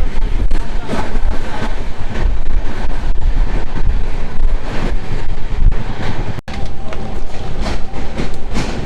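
Jan Shatabdi Express passenger train running, a steady rumble with scattered knocks, and heavy wind buffeting the microphone. The sound breaks off for an instant about six seconds in.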